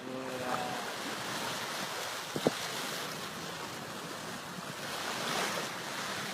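Flood-swollen river rushing, a steady noisy wash of water. A sharp click comes about two and a half seconds in.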